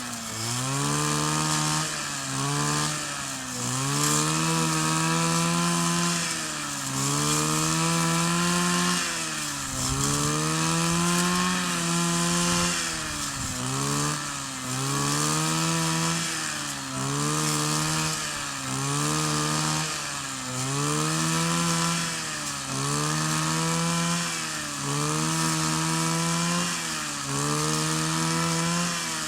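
Kioritz 260 brush cutter's two-stroke engine running at high revs, dipping and climbing back up again about every two seconds.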